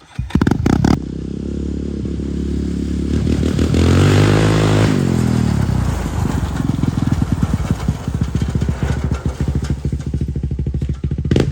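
Quad (ATV) engine starting up, then idling. It is revved once about four seconds in, rising and falling back to idle.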